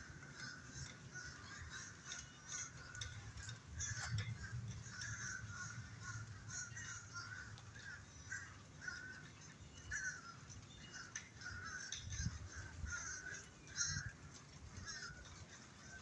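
Birds calling over and over in short, harsh notes, about one or two a second, over a faint low rumble.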